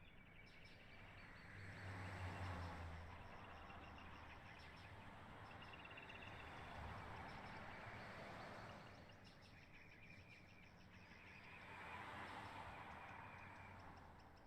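Near silence: quiet rural ambience with faint chirping of insects and birds, and a soft background noise that swells and fades about three times.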